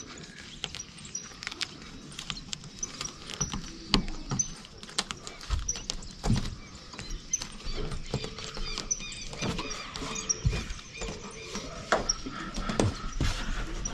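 Irregular knocks, taps and handling noises of hands-on roofing work: pieces of sealing membrane being laid and pressed down around the chimney base, with a few heavier thuds.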